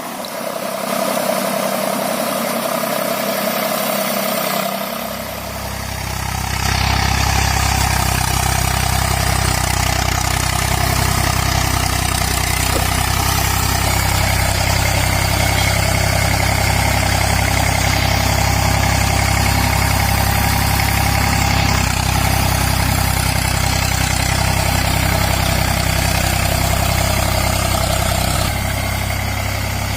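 Eicher 485 tractor's diesel engine running steadily. For the first five seconds the sound is thinner with no low end; then the deep engine note comes in and holds steady.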